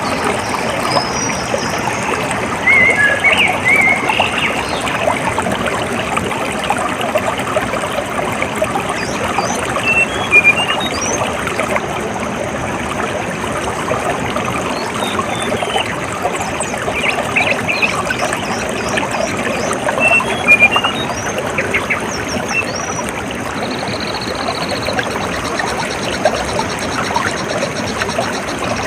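Running water trickling and splashing steadily, with short bird chirps coming and going over it.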